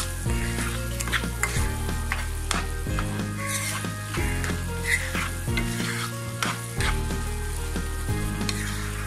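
Boiled beef brain frying and sizzling in a nonstick pan while a spatula stirs it, with frequent irregular scrapes and knocks against the pan.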